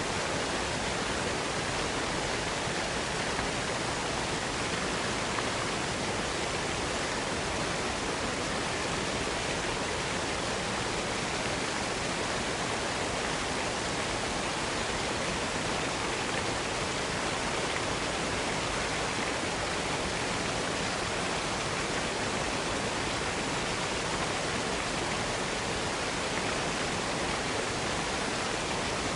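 Waterfall cascade rushing steadily, an even unbroken roar of falling water with no distinct splashes or changes.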